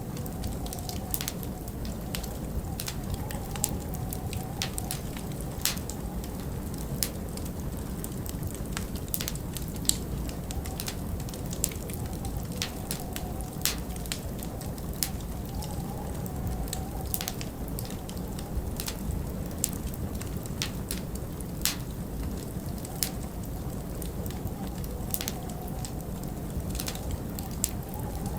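Wood fire crackling, with irregular sharp pops and snaps, over a steady low rumble of winter wind.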